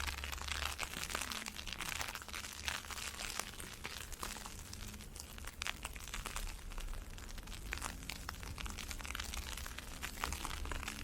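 Dense, irregular crackle of falling ice pellets, with footsteps crunching through snow.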